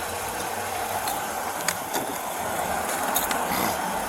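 Steady running noise of an idling vehicle engine, with a few sharp clicks and knocks: one about a second and a half in, another at two seconds, and a pair a little after three seconds.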